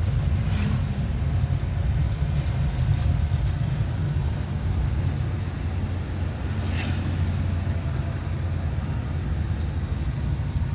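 Steady in-cab running noise of a 1994 Suzuki Carry 1000 on the move: its one-litre four-cylinder engine and road noise as a low rumble. Two brief sharp clicks sound out, about half a second in and a little past the middle.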